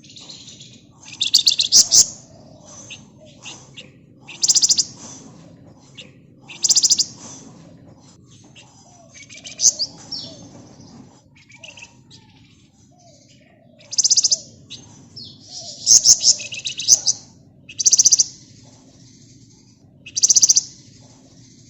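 Javan fulvetta (flamboyan, wergan Jawa) singing in repeated high, rapid rattling bursts, each under a second long, coming about every one to two seconds.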